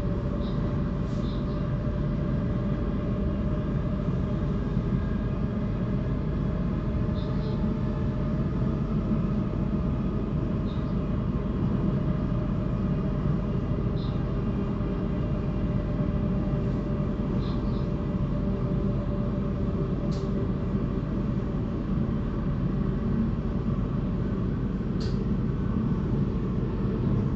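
Electric suburban train running between stations, heard from inside the carriage: a steady low rumble with a faint steady hum and a few brief high-pitched squeaks scattered through.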